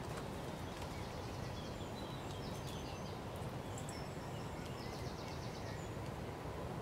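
Steady outdoor background rumble with small birds singing: short rapid high trills about two seconds in and again about five seconds in.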